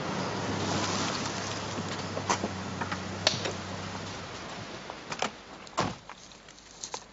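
A car's engine and tyre noise fading away over the first four seconds, followed by a few sharp clicks and knocks.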